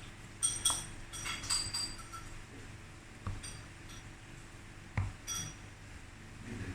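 Several light clinks of a spoon against a mixing bowl, some ringing briefly, with a couple of duller knocks in between.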